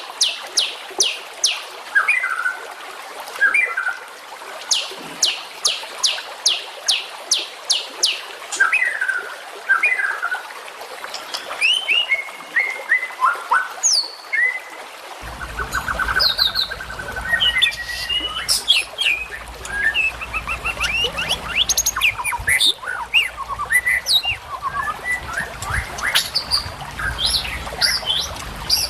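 Recorded songbird song from a masteran training track: trains of quick, sharp high notes, about five a second, alternating with short lower whistled phrases. About halfway through, it changes to a different recording of busier, mixed chirps and trills over a low background rumble.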